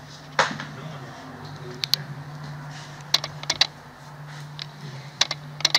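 Scottish Fold kitten's claws clicking and tapping on a laminate floor as it scampers, in scattered sharp taps, some in quick pairs and clusters, over a low steady hum.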